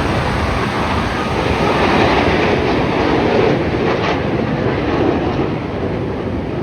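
Jet aircraft engine roar: a loud, steady rumbling roar that swells slightly around the middle.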